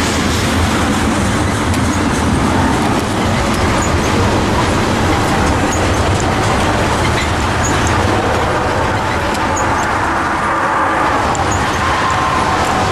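Loaded oil tank cars of a freight train rolling past close by: a steady, loud rumble of steel wheels on rail.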